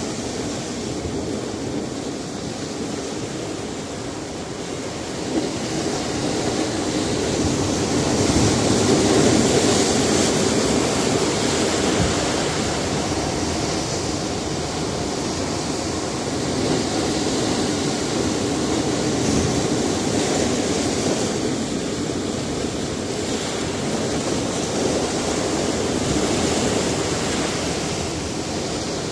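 Sea surf breaking and washing on a rocky shore, a continuous rush that swells to its loudest about a third of the way in and then eases.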